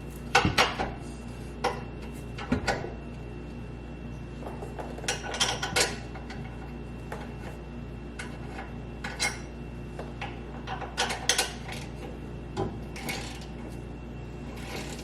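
Scattered metallic clinks and clanks of steel exhaust pipe sections and hand tools being handled, over a steady low hum.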